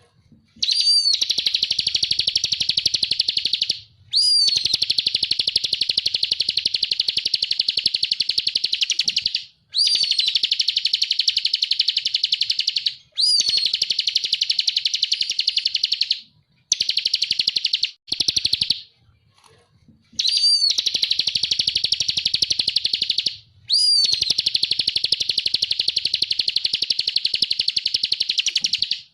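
Ciblek (prinia) singing in the 'ngebren' style: long, fast buzzing trills a few seconds each, every one opening with a short upslurred note, repeated about seven times with brief pauses between.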